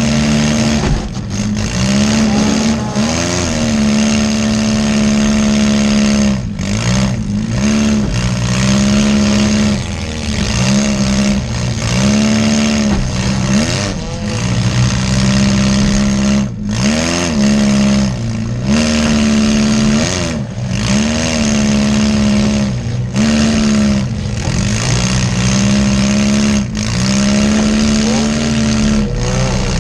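Compact demolition derby car's engine revving hard, heard from inside the car. It is held at high revs and drops briefly and climbs back a dozen or so times, every one to three seconds, as the throttle comes off and goes back on.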